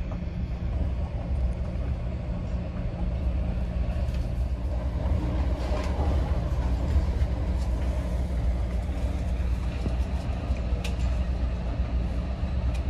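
Steady low rumble of a train, its engine sound sitting deep and even with no clear change.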